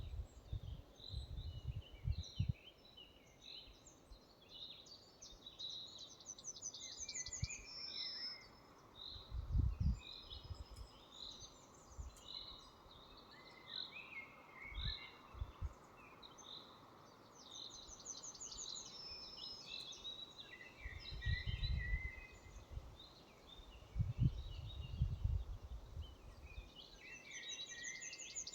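Several songbirds calling and singing in a forest, one repeating the same fast trilled phrase about every ten seconds. Irregular low rumbles, like wind buffeting the microphone, come and go and are the loudest sounds.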